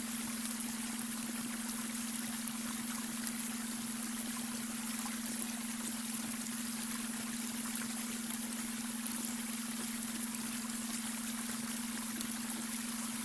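Babbling brook: water rushing and trickling steadily over stones. Under it runs a constant low hum, the beta brainwave tone mixed into the recording.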